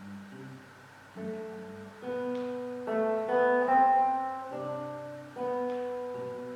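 Solo classical guitar playing plucked notes: soft at first, then a run of louder notes that builds to a peak about four seconds in and fades, with another strong note near the end.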